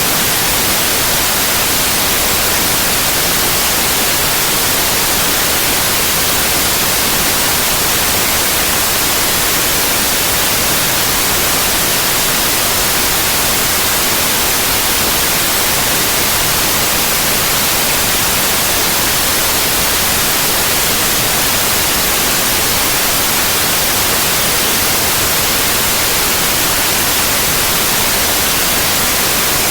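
Steady, loud white noise: an even, unchanging hiss with no breaks or variation.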